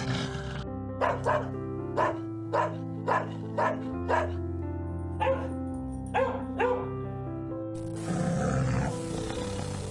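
A dog barking about ten times in short, sharp barks, over steady background music. A rough, noisy animal call starts about eight seconds in.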